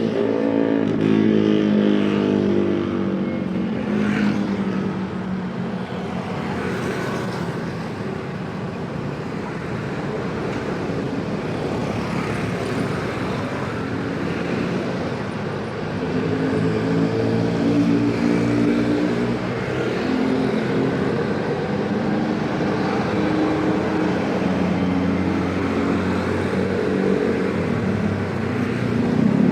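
Busy road traffic of cars and motorcycles: a steady wash of engine and tyre noise, with engines rising in pitch several times as vehicles accelerate past.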